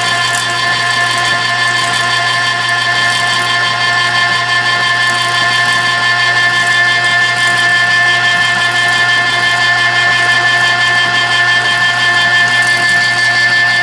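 Cabela's 1/3 HP electric meat grinder running steadily with a motor whine of several pitches while grinding venison chunks, fascia and all. It grows slightly louder toward the end.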